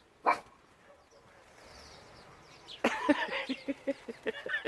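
Small Yorkie cross dog giving one sharp bark, then, after a short lull, a rapid run of high, excited yips and whines, several a second.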